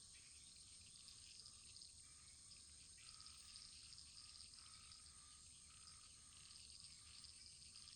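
Wood fire in a fireplace crackling faintly: a steady patter of tiny pops over a soft hiss.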